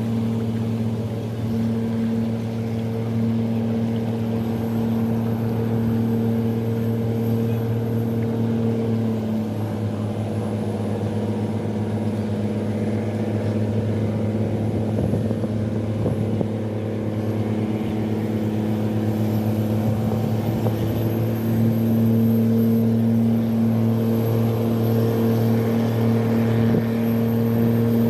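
A tugboat's engine running steadily with a deep hum. It eases off slightly about a third of the way through, then picks up again past two-thirds.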